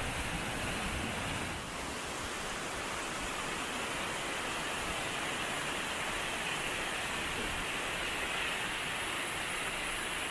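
Steady rush of water from a mountain waterfall, an even hiss without breaks.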